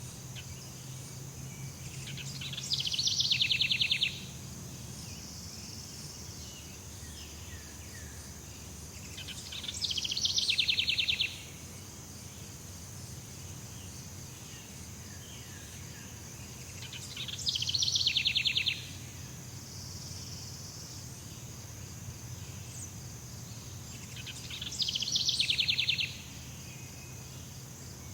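Jungle ambience: a steady high insect drone, with a rapid pulsing trill that swells and then cuts off abruptly, repeated four times about every seven and a half seconds.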